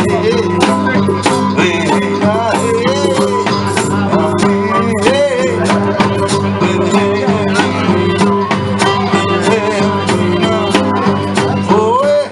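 Live blues music played by a small band: an instrumental passage with bending, wavering melody notes over a steady rhythmic accompaniment.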